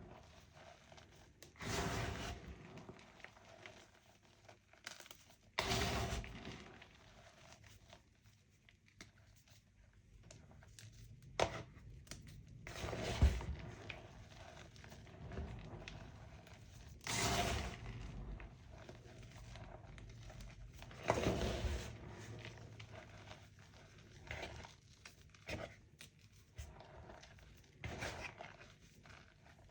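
Homemade gym chalk and reformed chalk pieces being crunched and crumbled: a louder crisp crunch about every four seconds, with softer crumbling and small clicks between.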